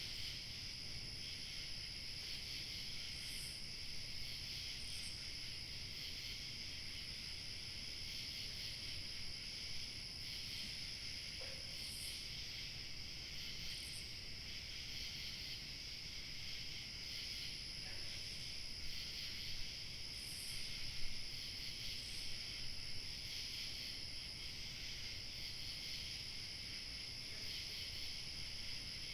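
Chorus of crickets chirping steadily, over a faint low rumble of light wind.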